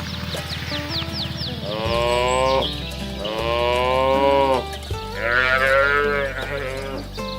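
Cows mooing three times in a row, long drawn-out calls that bend in pitch, the last rising higher than the first two.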